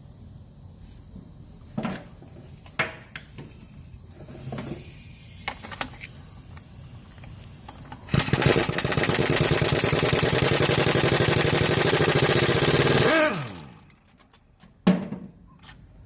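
An engine catches about eight seconds in, runs loudly and steadily for about five seconds, then is switched off and winds down with falling pitch. Scattered clicks and knocks come before it starts and after it stops.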